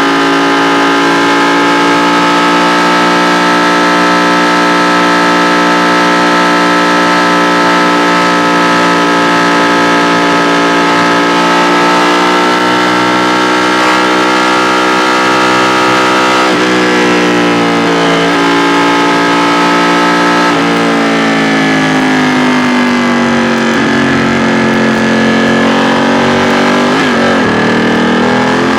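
2016 Ducati XDiavel S's 1262 cc Testastretta DVT L-twin running under way. It holds a steady engine speed for a little over half the time, then drops in pitch in a couple of steps as the rider slows and shifts, and picks up again near the end.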